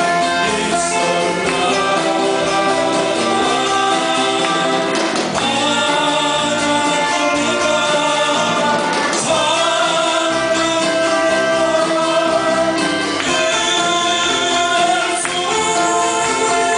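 Live band playing a 1970s–80s-style Korean pop song: sung vocals with held notes over keyboard, electric guitars, bass and drums.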